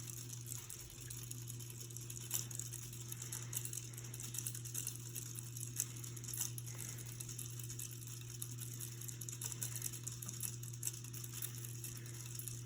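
Westinghouse Xavier ceiling fan running, its motor giving a steady low hum with faint, irregular light ticks and rattles.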